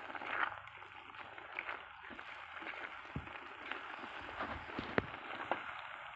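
Mushrooms sizzling and bubbling in their juices in a steel wok, with a spatula stirring and scraping through them and a few sharp taps against the pan, the loudest about five seconds in.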